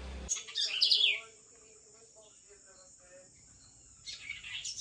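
A bird calling: a quick run of high, falling chirps about half a second in, and another run near the end, with quiet in between.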